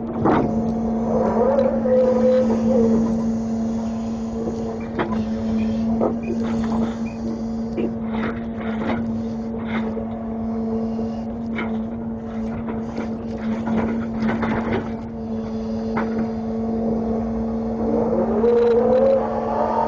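Grapple truck running under load: a steady engine and hydraulic hum, with the pitch rising and falling as the hydraulics are worked near the start and again near the end. Repeated knocks and clunks come from the load being handled.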